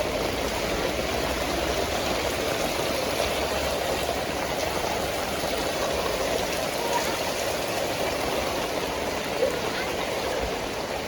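Steady rush of running water, with no single splashes or knocks standing out.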